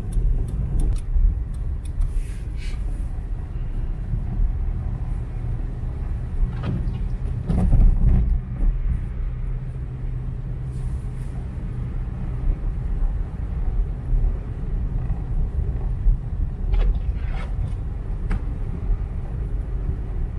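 Car driving along, a steady low rumble of engine and tyres on the road, with a louder swell about seven to eight seconds in.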